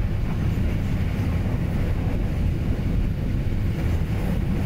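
Steady low rumble of a moving passenger train, heard from inside the carriage: wheels running on the rails and the coach's running noise.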